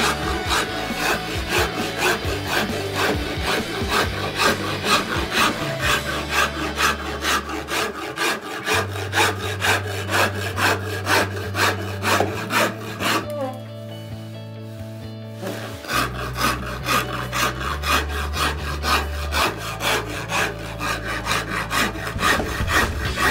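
A hand file or rasp scraping along a cricket bat's cane handle in quick, even back-and-forth strokes, shaping the new handle. The strokes stop for about two seconds roughly halfway through, over background music with a bass line.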